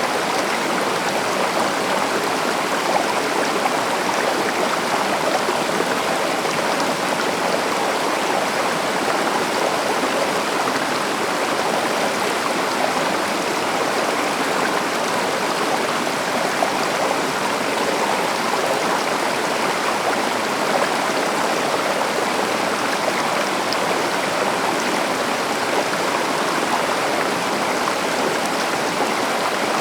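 A stream flowing over rocks, a steady rushing and babbling of water at an even level.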